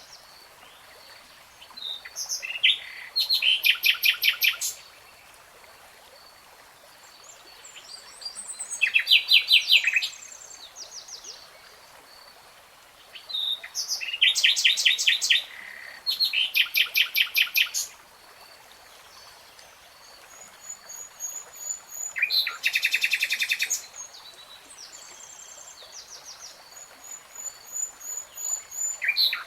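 A songbird singing in separate phrases, each a fast run of rapidly repeated notes lasting a second or two, with short pauses between phrases and faint thin high notes in the gaps.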